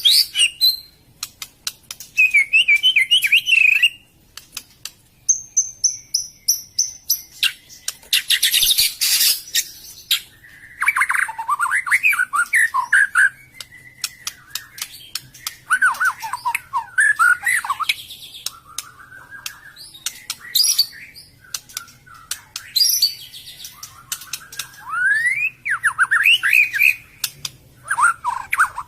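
White-rumped shama (murai batu) singing a long, varied song of loud whistled phrases, quick trills and sweeping notes, mixed with harsh rasping bursts, in short bouts with brief pauses between them.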